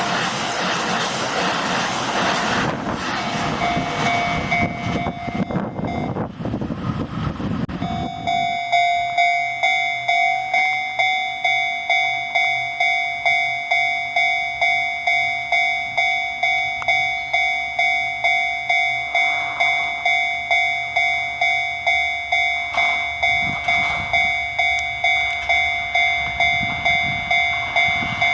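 A Shin-Keisei electric train runs past over the level crossing for the first eight seconds or so. After that, the crossing's warning bell rings on its own at an even pace of about one and a half ringing strikes a second.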